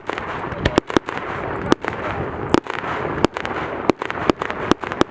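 Fireworks going off: about a dozen sharp bangs in quick, irregular succession over a continuous noisy background.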